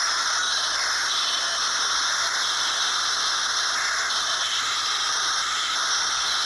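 Steady, even hissing noise, strongest in the upper range, holding constant without breaks.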